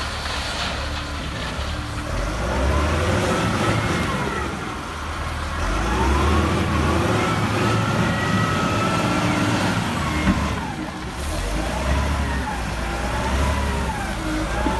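Liugong 836 wheel loader's diesel engine revving up and down several times as it works, with a whine that rises and falls along with the revs.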